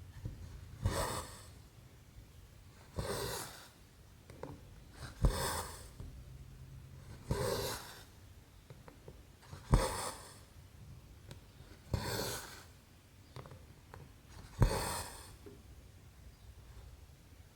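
Embroidery thread being pulled through 11-count cross stitch canvas, a short rasping swish about every two seconds, seven times. Several pulls begin with a sharp click as the needle pierces the fabric.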